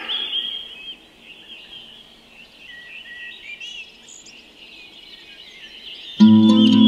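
Several songbirds chirping and warbling over one another, with a faint background hiss. About six seconds in, loud music with plucked strings comes in suddenly.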